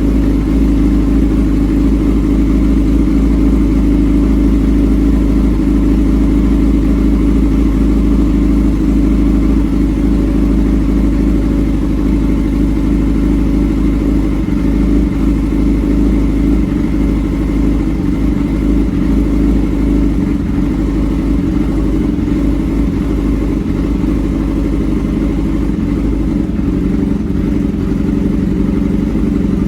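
Yamaha R6 inline-four engine through an SC Project aftermarket exhaust, running loud at a steady speed with no big rise or fall in revs.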